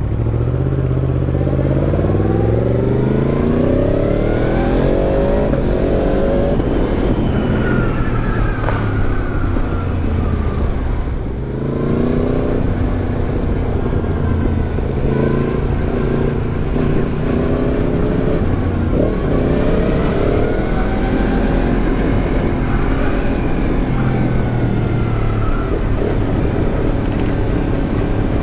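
Yamaha MT-10's crossplane inline-four engine through an Arrow exhaust, accelerating hard: its pitch climbs in repeated rising sweeps as it shifts up through the gears, then falls as the rider eases off about eight seconds in. It pulls up through the gears again from about twelve seconds and drops back off near the end.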